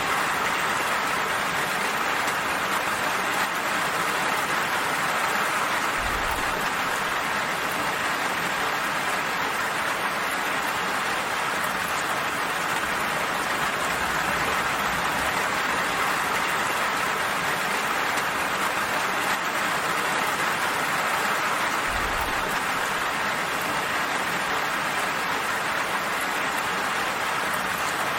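Steady, even rain falling on a surface. Twice, about six seconds in and again near the end, a brief low thud sounds under it.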